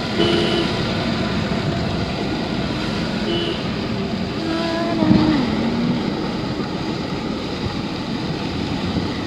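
Steady road and engine noise heard from inside a moving car's cabin. A few brief faint pitched sounds come through, one sliding down in pitch about five seconds in.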